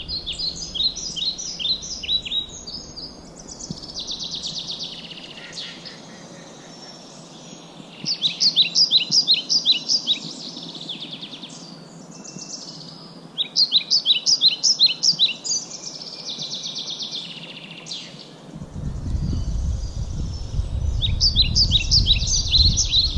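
A songbird singing in bouts of rapid, repeated high chirping notes, about two seconds each, four times with pauses between. About three-quarters of the way through, a low rumble comes in and continues under the song.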